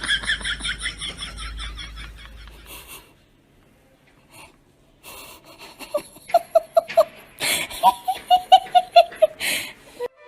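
People laughing: a high-pitched run of quick laughs for about three seconds, then after a short pause another bout of rhythmic laughter.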